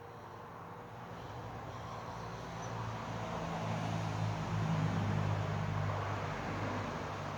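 A motor vehicle's engine passing by, a low steady hum that grows louder to a peak around the middle, then eases off slightly.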